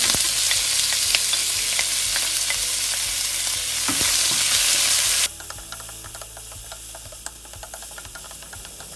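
Sliced onion, tomato and garlic sizzling loudly as they hit hot oil in a stainless steel wok. About five seconds in, the sizzle drops suddenly to a quieter frying crackle, with a spatula stirring and ticking against the pan.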